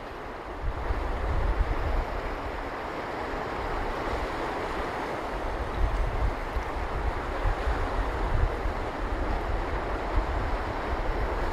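Sea surf washing onto a beach, a steady rushing hiss that swells about a second in, with wind buffeting the microphone in low rumbles.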